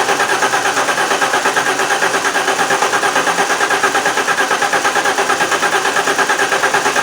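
Alfa Romeo 164's 2.0 V6 Turbo Busso engine cranking on the starter motor in rapid, even pulses at a steady speed without firing: a crank-no-start.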